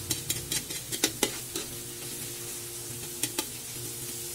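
Chopped aromatics (tomato, onion, green chili, garlic and ginger) sizzling in hot oil in a metal wok, being sautéed toward golden brown. A spatula scrapes and clicks against the pan as they are stirred: a quick run of strokes over the first second and a half, then two more about three seconds in.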